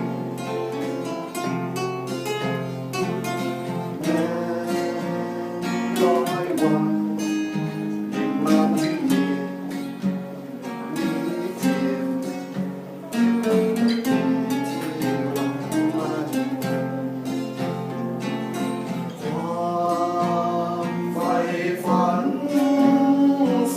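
Guitar music, plucked and strummed, filling an instrumental passage of a live song.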